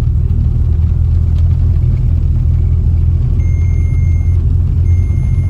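Car driving, heard from inside the cabin: a steady low rumble of engine and road noise. A high beep sounds twice in the second half, each lasting about a second.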